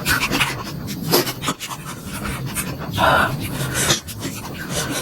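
Close-miked eating of momos: wet chewing and lip-smacking clicks, with a loud breathy exhale about three seconds in.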